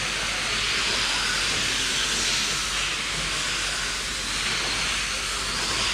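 A pack of electric RC dirt oval late model cars running laps, their 21.5-turn brushless motors and tyres on the clay making a steady high whining hiss, with faint pitch swings as cars pass.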